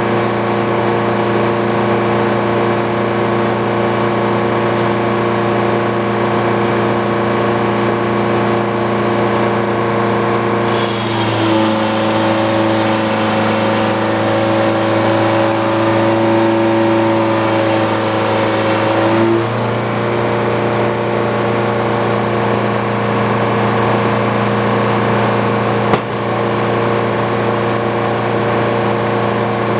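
Engine powering a Frick circular sawmill, running steadily. From about eleven to nineteen seconds its note changes under load and a hiss joins in as the saw goes through the log, then it settles back to its steady running. A single sharp knock comes near the end.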